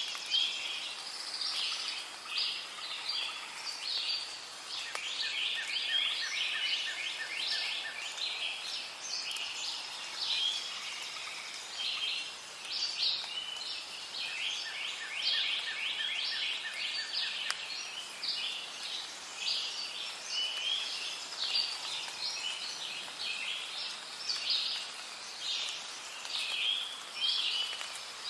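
Rainforest ambience: many birds chirping and calling at once over a steady background hiss, with a lower, rapid pulsing trill that comes in twice, for several seconds each time.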